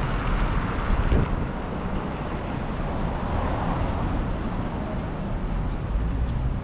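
Wind buffeting the microphone in gusts, with a low rumble and a brief thump about a second in, over the sound of street traffic.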